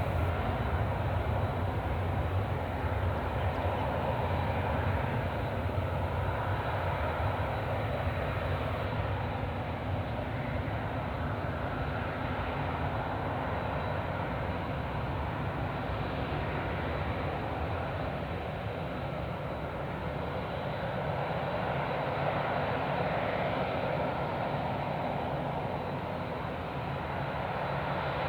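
Jet airliner engines running, a steady rumble that rises and falls only slightly.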